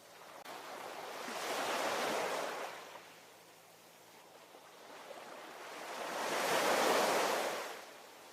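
Ocean waves breaking on the shore: two waves swell and wash in, one peaking about two seconds in and a louder one near the end, with a quieter hiss between them.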